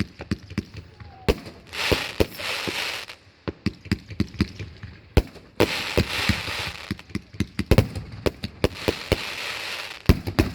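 Fireworks going off: a rapid string of sharp bangs and pops, with three bursts of dense crackling hiss, each lasting about a second and a half.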